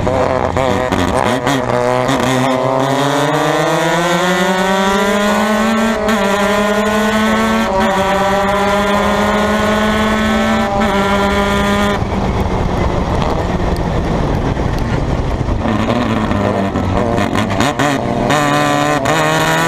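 Formula Mazda race car engine at racing speed, climbing in pitch for the first few seconds and holding high with a brief dip. About twelve seconds in it drops sharply as the throttle is lifted, runs lower for several seconds, then climbs again near the end.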